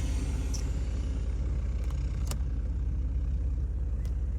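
Steady low rumble of an idling vehicle engine, with an even fine pulsing, and a single sharp click a little over two seconds in.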